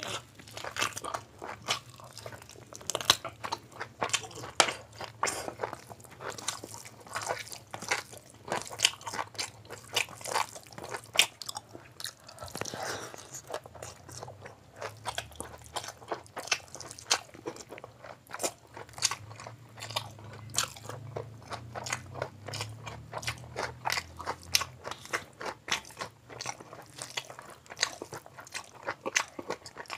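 Close-miked eating: a person chewing and biting mouthfuls of chicken biryani eaten by hand, a dense, irregular run of sharp crunchy clicks and smacks.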